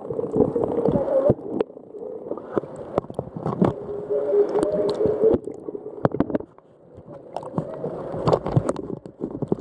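Muffled water sloshing and gurgling, as heard by a camera at or under the water's surface while snorkellers swim off, with irregular splashes and a steady hum partway through.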